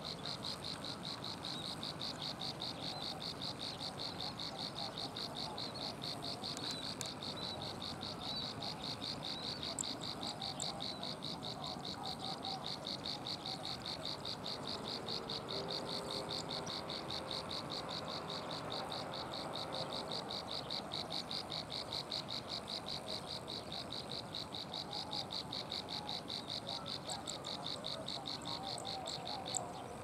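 A small warbler (cisticola or prinia) singing a long, monotonous run of rapid, evenly spaced high notes that goes on without a break and stops near the end.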